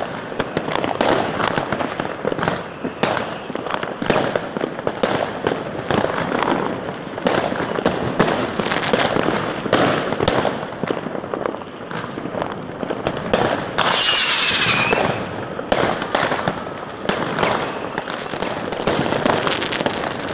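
Consumer fireworks going off all around: a dense, near-continuous barrage of bangs and crackling firecrackers. Partway through, a shrill whistling firework sounds for about a second.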